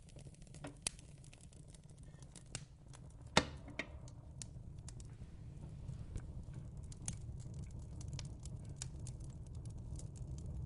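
Fireplace crackling: a steady low rumble with scattered irregular pops and snaps. One pop, about a third of the way in, is louder than the rest.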